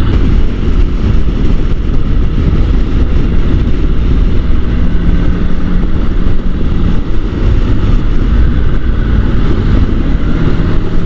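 Motorcycle on the move: steady wind rush on the microphone over the low drone of the engine, with no gear changes or revving.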